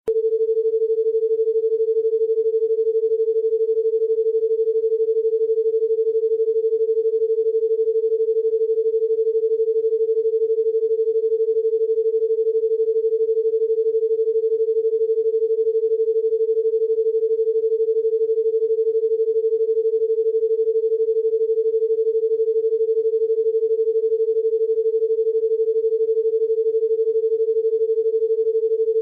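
A single steady electronic pure tone, a mid-pitched sine-like hum held without any change in pitch or loudness.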